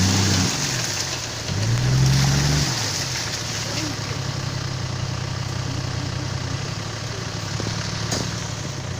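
Car engine revving twice, its pitch rising each time, then running steadily at lower revs, as the car struggles for grip in mud and fails to drive out.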